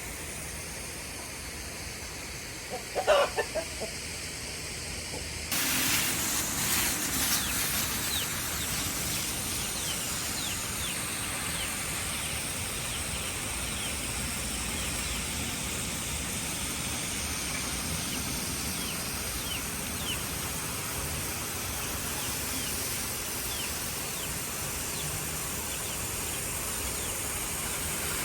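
A chicken gives a short call about three seconds in. A couple of seconds later a steady hiss of spraying water starts and runs on, with many faint short chirps over it.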